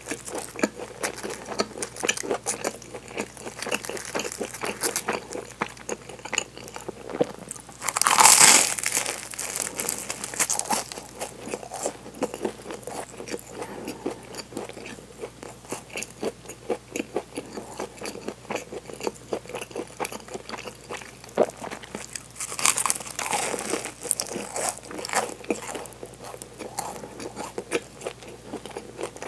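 Close-miked chewing of a flaky, chocolate-filled pastry ring, with fine crackling of the crisp crust all through. Two louder crunches stand out, about eight seconds in and again about twenty-three seconds in.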